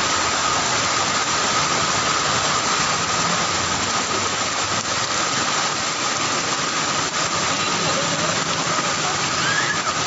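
Heavy tropical rain pouring down, a steady hiss.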